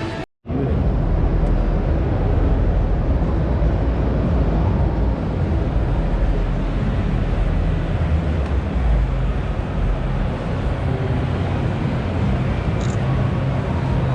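Steady low background rumble of a large exhibition hall, with no clear voices or engine tones, starting after a brief dropout just after the start.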